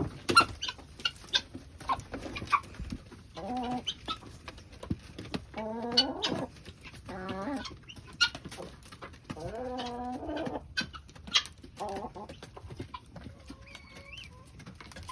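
Chickens clucking, with several longer, wavering hen calls among short sharp clucks.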